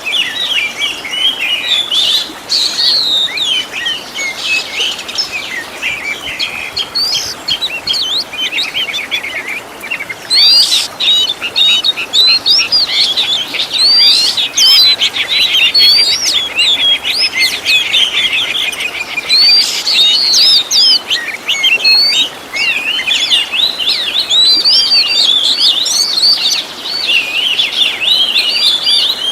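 Oriental magpie-robin (kacer) singing a continuous, fast, varied song of whistled notes, sweeps and rapid trills, filled with phrases copied from other birds.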